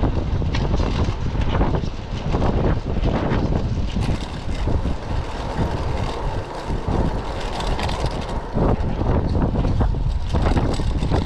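Typhoon wind buffeting the microphone: a heavy low rumble that swells and dips unevenly, broken by many short gust blasts.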